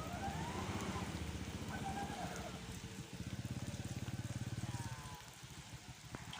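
Diesel truck engine running hard with a rapid, even firing pulse, in rain. The engine eases off about five seconds in.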